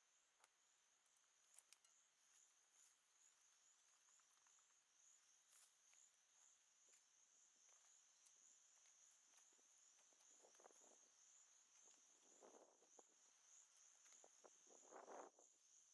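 Near silence with faint insects trilling steadily at a high pitch, and a few soft rustling swells in the last few seconds.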